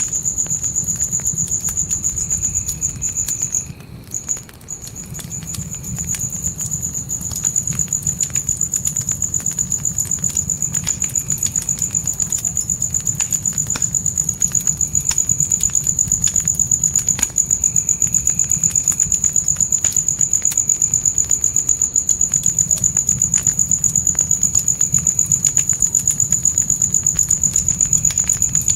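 Crickets chirping in a rapid, even, high-pitched trill that stops for about a second around four seconds in and then resumes. Underneath is a campfire's scattered crackles and pops with a low, steady rumble.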